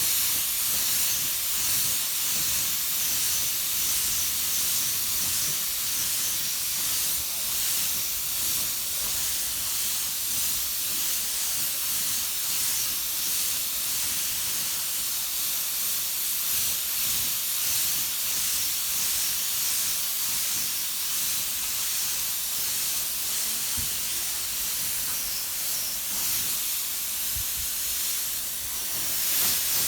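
Paint being sprayed onto a motorcycle headlight housing: a steady hiss of spray that runs without a break.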